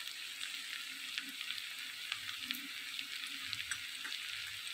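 Bitter gourd and onion slices frying in oil in a steel kadhai: a steady sizzle with scattered small crackles and pops.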